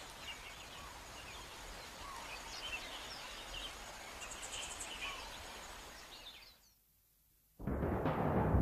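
Faint outdoor ambience with scattered bird chirps. It fades out about six and a half seconds in, and after a second of silence music with timpani drums begins.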